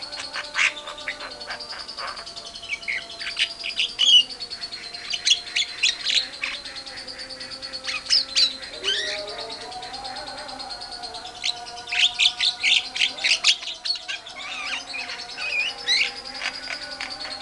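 Lovebird and Javan myna (jalak kebo) calling: clusters of rapid, sharp chirps and harsh chatter over a steady high trill, busiest twice, a few seconds in and again past the middle.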